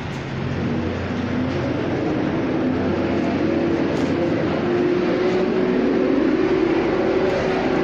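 A nearby vehicle engine running, rising steadily in pitch and loudness over several seconds, then holding.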